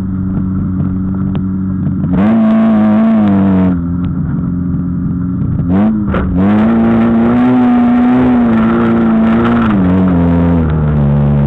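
Old street banger's engine heard from inside the car, running steadily, then revved up for about two seconds, dropping back, and revved again for about four seconds before easing off near the end. There are a couple of sharp knocks about six seconds in.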